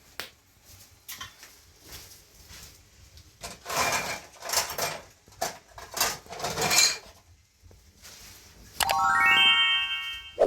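Several short noisy scraping strokes, then a ringing chime-like tone that starts about nine seconds in and holds steady to the end.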